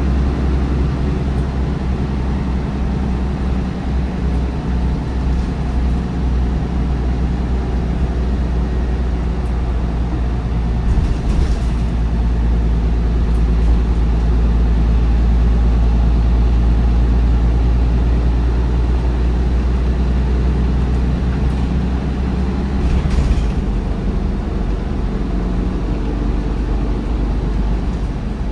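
MAN D1556LOH diesel bus engine running steadily with a deep drone, driving through a ZF Ecolife automatic gearbox. The low drone drops a little about three-quarters of the way through, with brief faint hisses around the middle and at that drop.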